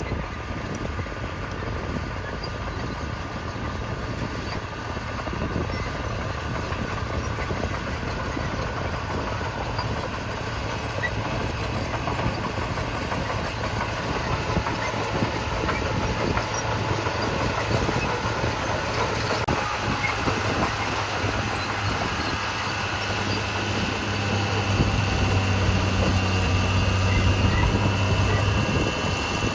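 Heavy diesel engines of earthmoving machines (dump trucks and a bulldozer) running steadily, with a low engine hum growing louder over the last few seconds.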